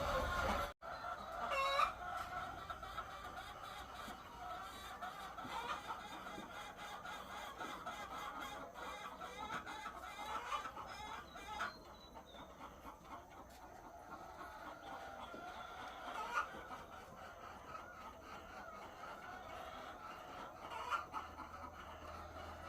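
A flock of egg-laying hens clucking and calling together in a steady, many-voiced chatter, with a few louder single calls standing out. The sound drops out for an instant just under a second in.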